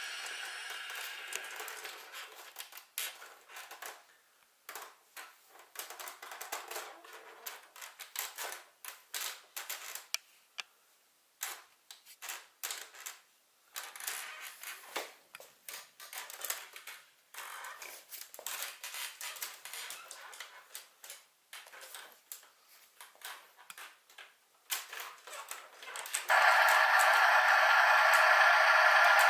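Irregular clicking and rattling of a plastic electronic toy garbage truck being handled. Near the end the toy's electronic sound effect starts suddenly and plays loudly and steadily.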